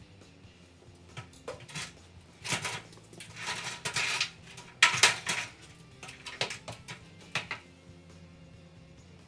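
Metal objects clattering and scraping: a run of sharp clinks and short scrapes over about six seconds, loudest around the middle, with quiet background music underneath.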